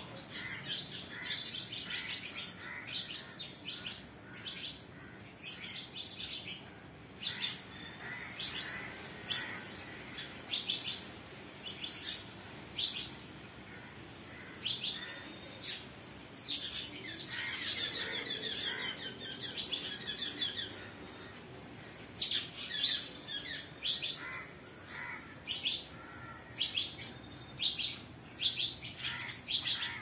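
Birds chirping: many short, high chirps and calls one after another, thickest a little past halfway through.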